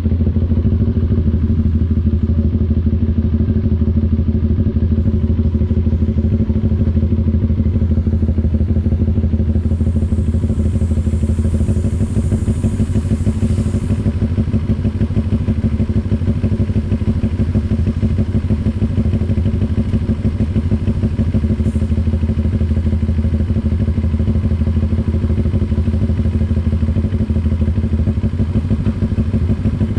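CF Moto NK400 two-cylinder motorcycle engine running at steady revs, with no revving up or down.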